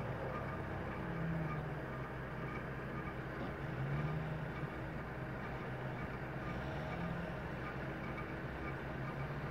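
Off-road vehicle engine running steadily, its revs swelling up and dropping back about every three seconds, as when a 4x4 works to get out of mud.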